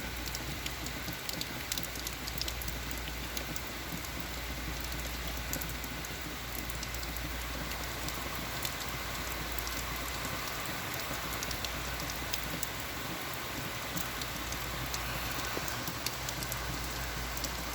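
Heavy rain falling steadily, a continuous hiss full of fine drop patter.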